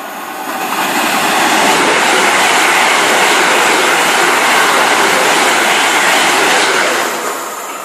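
A train passing at speed without stopping: a loud, steady rush that builds over the first two seconds, holds, then fades away near the end.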